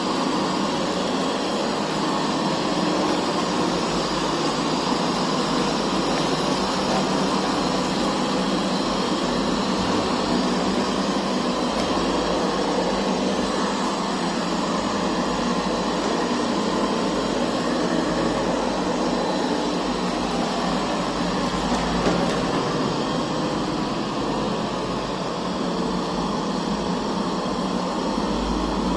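Puppyoo R6 robot vacuum running, a steady whir of its suction fan and brushes, with one brief knock about 22 seconds in.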